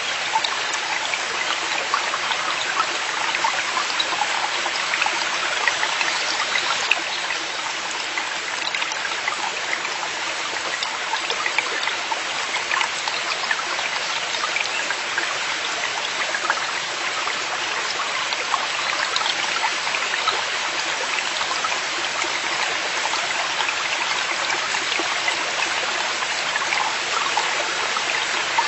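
Forest valley stream running steadily, its water trickling and splashing in many small, quick droplet sounds over an even rush.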